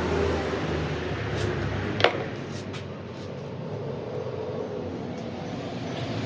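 A machine or engine running with a steady low hum, with one sharp metallic knock about two seconds in.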